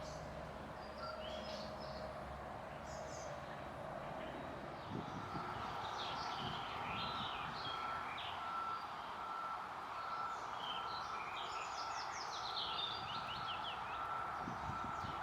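Small songbirds chirping and twittering in short bursts over a steady background hum of the city, with a faint high tone repeating about twice a second from about five seconds in.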